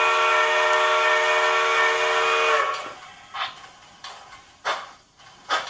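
Sound-equipped model 2-8-0 Consolidation steam locomotive blowing a long, loud chime whistle for nearly three seconds. It then gives slow, widely spaced exhaust chuffs as it starts to pull away.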